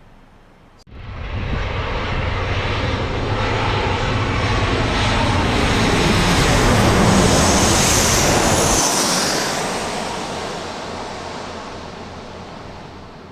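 Jet engines of a regional jet taking off and passing close by. The sound starts abruptly about a second in and swells to a peak around the middle with a high whine, then fades away.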